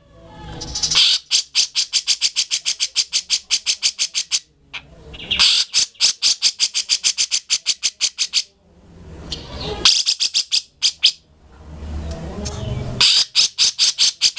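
Grey-cheeked bulbul (cucak jenggot) singing insistently: runs of rapid, evenly spaced high notes, about seven a second, each run led in by a rising, rougher phrase, over and over.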